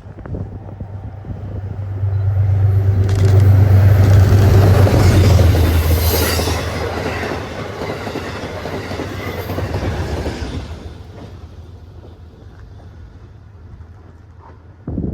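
Metro-North passenger train passing close by. A low steady hum and wheel-on-rail noise build to a peak a few seconds in, then fade away over the second half.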